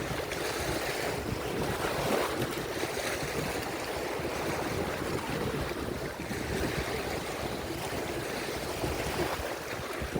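Lake waves breaking and washing on the shore in a steady wash of surf, with wind buffeting the microphone.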